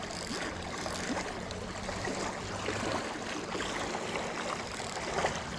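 Mississippi River current rushing steadily over and around the rocks of a wing dam.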